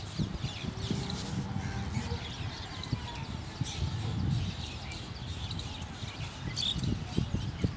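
Small birds chirping repeatedly over a low, uneven rumble.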